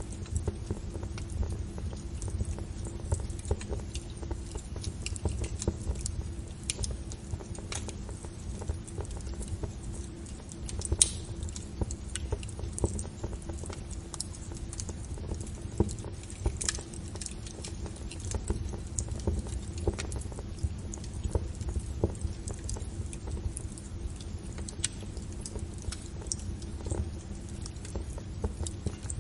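Fire crackling: irregular sharp pops and snaps over a steady low rumble of the flames, with one louder crack about eleven seconds in.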